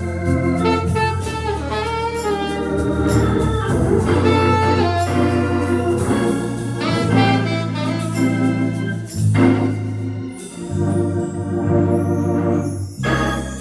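Live instrumental music led by an organ, playing chords and runs over a steady low bass line, with a brief break near the end before the music comes back in.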